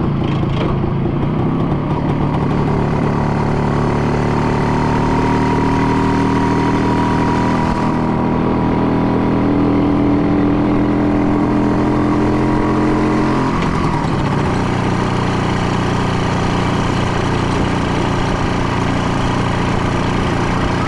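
An engine running steadily; for several seconds its pitch climbs slowly, then it drops back abruptly about two-thirds of the way through.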